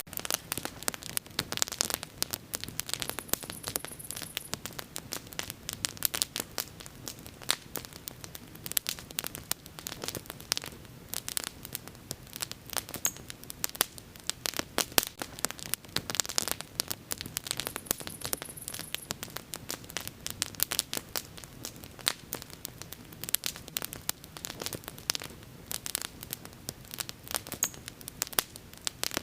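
Bonfire burning, with dense irregular crackling and popping over a soft steady hiss.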